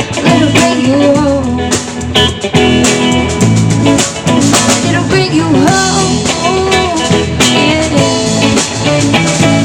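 Live band music: guitar over bass and a drum kit, with a melodic line bending in pitch.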